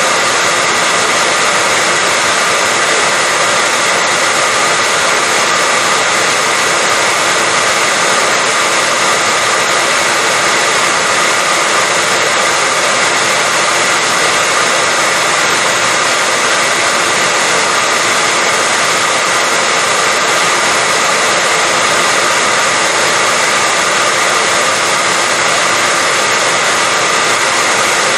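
Hair dryer running continuously on one setting: a loud, unbroken rush of air over a steady motor hum, used as white noise to lull a baby to sleep.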